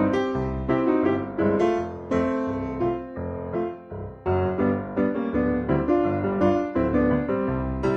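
Background piano music: a steady run of notes and chords with no speech.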